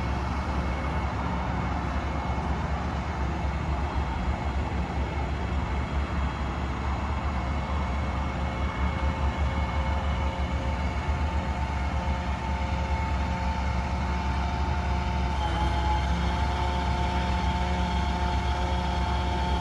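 An engine running steadily, with a steady whine over it that shifts slightly in pitch about three-quarters of the way through.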